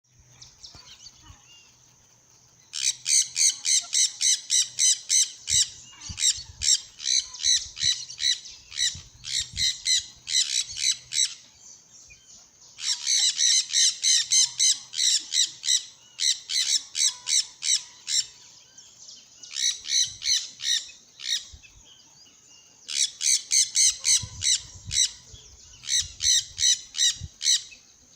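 Birds squawking: rapid runs of harsh, repeated calls, about five a second, in bouts several seconds long with short pauses between.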